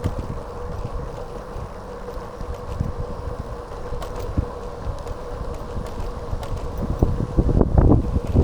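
Wind buffeting the microphone of a camera on a moving bicycle: an uneven low rumble with soft thumps, strongest in a burst of gusts near the end. A faint steady whine runs underneath.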